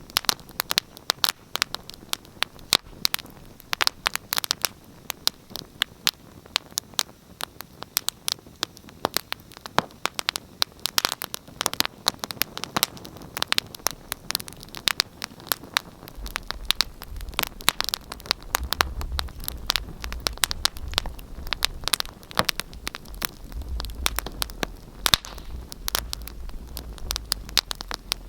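Wood fire crackling in a fireplace: dense, irregular sharp pops and snaps, with a low rumble coming in about halfway through.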